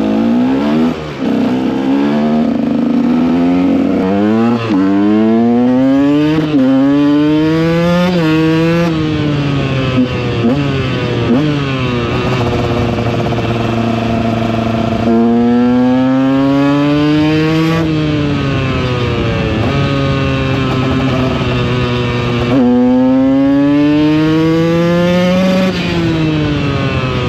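KTM EXC 125 two-stroke single-cylinder engine under way, accelerating up through the gears with the pitch climbing and dropping back at each shift, then settling to a steady cruise. Later it revs up and falls away again a few times as the rider speeds up and slows down.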